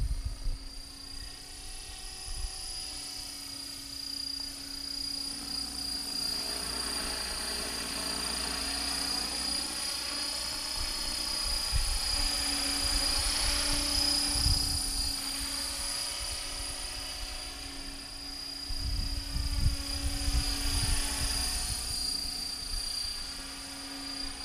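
Electric RC helicopter with a Turnigy Typhoon 500H brushless motor in flight, giving a steady high whine over a rotor hum, the sound swelling and fading as it moves about. Wind buffets the microphone, strongest in the last few seconds.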